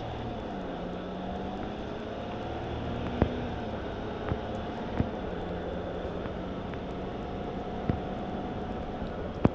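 Ram pickup truck heard from inside the cab while driving: steady engine and road noise, the engine note shifting in pitch as it pulls. A few sharp knocks break through, the loudest about three seconds in.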